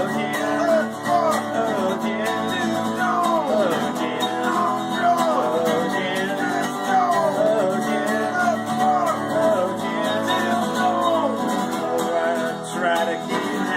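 Country-style song on acoustic guitar: strummed chords under a melody line that bends and slides from note to note.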